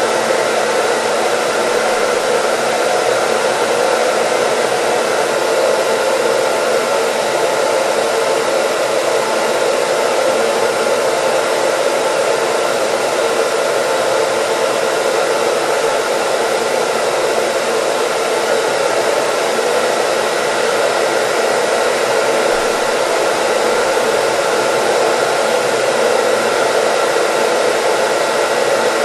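Hair dryer running continuously: a steady, unchanging airy rush with a faint steady motor whine.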